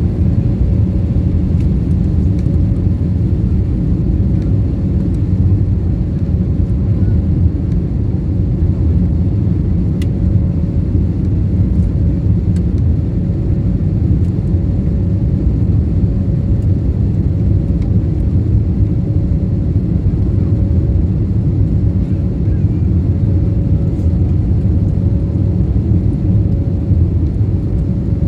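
Jet airliner cabin noise after takeoff: the steady rumble of engines and airflow, with a faint steady tone above it.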